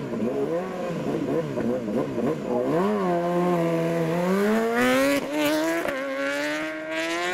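Superbike racing motorcycle engine. Its pitch swings rapidly up and down at first, then holds steady for about a second, then climbs steadily as the bike accelerates hard.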